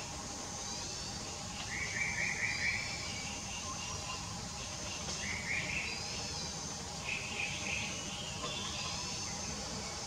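Birds singing in trees: short trilled phrases repeat every few seconds, mixed with thin, higher arching notes, over a steady low background hum.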